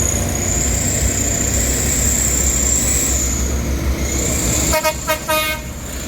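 A truck's horn gives three short toots near the end, over the low rumble of a truck's diesel engine running. A steady high whine sounds throughout.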